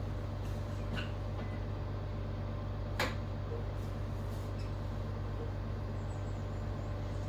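A steady low electrical hum with a few light clicks and knocks of handling during silicone sealing work, the sharpest click about three seconds in.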